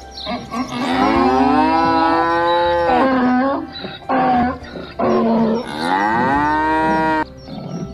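Donkey braying: two long drawn-out calls that rise and then fall in pitch, with shorter, harsher breaths between them. It stops shortly before the end.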